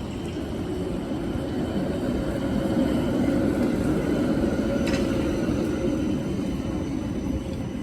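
A road vehicle passing on a city street: a low rumble with tyre noise that swells to its loudest about three seconds in and slowly fades.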